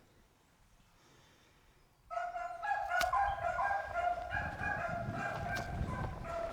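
Beagles baying, in full cry on a rabbit's scent trail: overlapping drawn-out calls that start suddenly about two seconds in and carry on.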